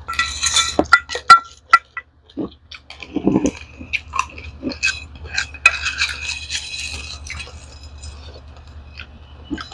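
Crunching and chewing of dry roasted raw rice grains. Sharp clicks and clinks of a plastic ladle scooping rice in the bowl come mostly in the first second or two.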